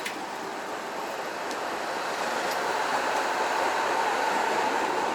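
City traffic noise passing, a vehicle growing louder from about two seconds in, with a faint steady tone over the rush. A sharp click right at the start.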